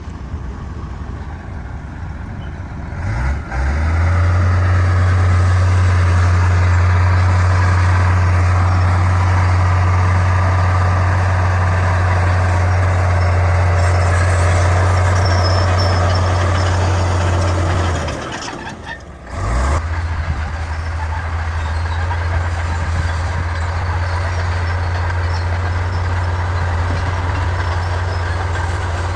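Bulldozer's diesel engine working under load, a loud steady low hum that comes up a few seconds in, dips out briefly about two-thirds of the way through, then picks up again.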